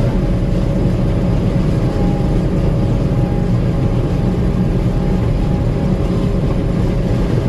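Gleaner M2 combine running steadily in the field, a constant low engine and machinery drone with a few steady whining tones, heard from inside the cab.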